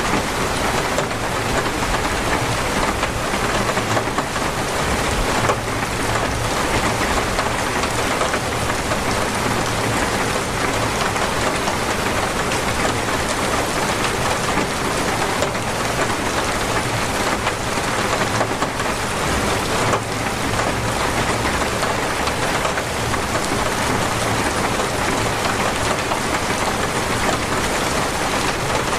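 Heavy rain falling steadily, an even, unbroken rush of drops on surfaces.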